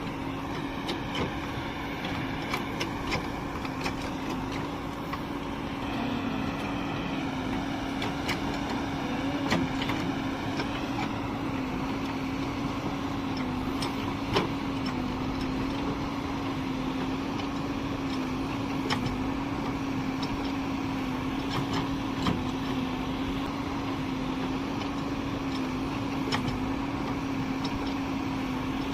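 Heavy diesel engine of earth-moving machinery running steadily, its pitch wavering slightly under changing load. Scattered sharp clanks sound over it.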